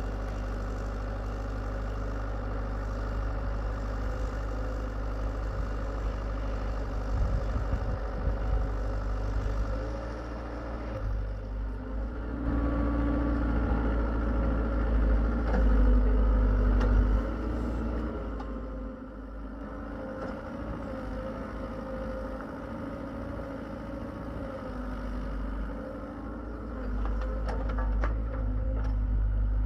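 Hitachi EX75UR excavator's diesel engine running steadily, rising in level for about five seconds partway through, with a few light knocks near the end.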